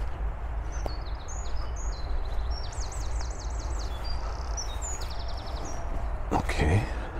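Songbirds singing, a string of high chirps and quick rapid trills, over a steady low rumble. Near the end, a short louder rustling thump.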